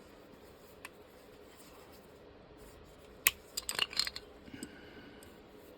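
A sharp metallic clink about three seconds in, followed by a quick run of clicks and scrapes, as a welded metal piece is forced onto its fitting and sticks.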